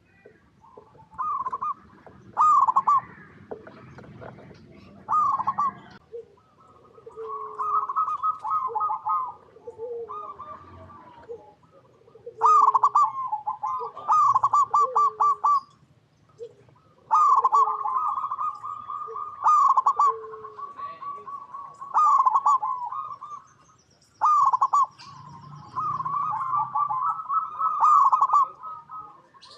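Zebra dove (perkutut) cooing: phrase after phrase of quick stuttering coos, with short pauses between.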